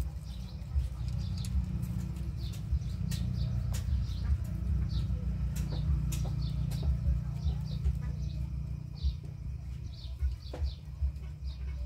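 Birds chirping in short, high calls, repeated many times, over a steady low rumble.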